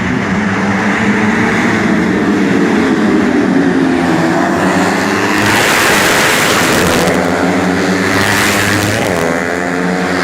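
Several 125 cc four-stroke underbone racing motorcycles running hard at high revs, their engine notes overlapping. Bikes come past louder about halfway through and again near the end, with revs rising toward the end.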